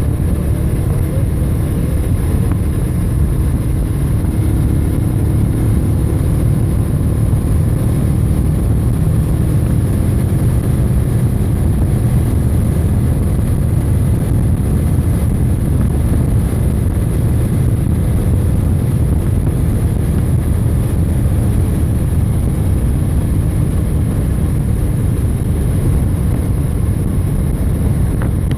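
Steady wind rush and engine noise from a motorbike under way, a heavy even rumble with a faint engine drone beneath it.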